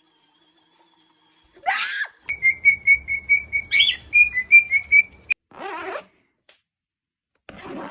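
Pet parrot gives a short squawk, then whistles a run of short pips on one high note, about four a second for three seconds, then a brief raspy call.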